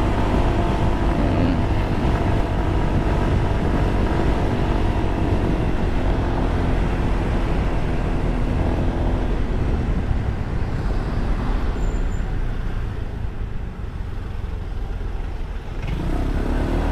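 Honda SH150i scooter's single-cylinder engine running on the move, under steady wind and road noise on the rider's microphone. The noise drops for a few seconds after the middle, then builds again near the end.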